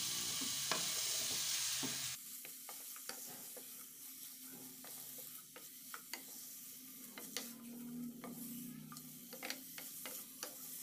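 Chicken pieces sizzling in oil in a nonstick pan as they are stir-fried with a wooden spatula, with scattered light scrapes and taps of the spatula against the pan. The sizzle is loud at first and drops suddenly to a faint hiss about two seconds in.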